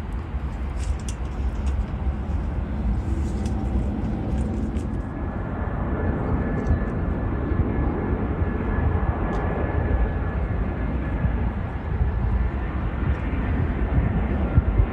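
Jet airliner engines running with a steady rumble; a thin high whine comes in about a third of the way through as the sound grows a little louder.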